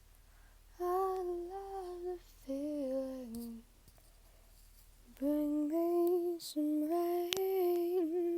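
A woman humming a slow, wordless melody unaccompanied, in two phrases with a short pause between them.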